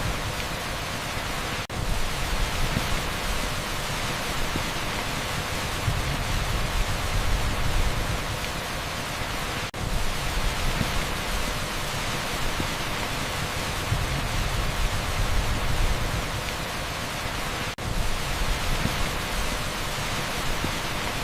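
Torrential rain on an asphalt street mixed with heavy pink noise: a steady, loud, even hiss. It drops out for an instant three times, about eight seconds apart.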